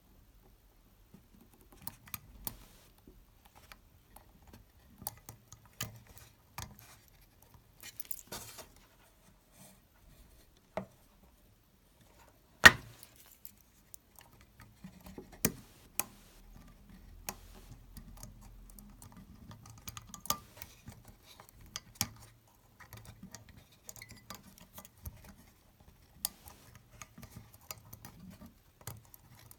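Scattered light clicks and taps of small hard objects being handled, with one much sharper click about twelve seconds in.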